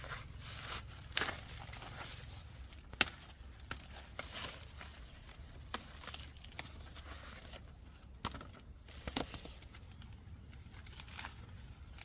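Dry leaves or husks rustling and tearing, with a few sharp snaps and cracks.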